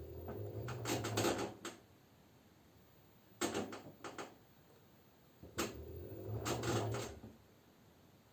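LG F10B9LD front-loading washing machine early in its spin stage, its drum turning in short bursts to spread the load before spinning up: motor hum with clattering laundry and drum, twice, with a few sharp clicks between.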